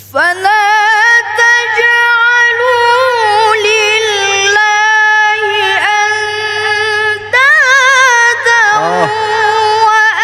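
A boy's high voice reciting the Quran in melodic tajweed style, drawing out long, richly ornamented notes, with a few short breaks for breath.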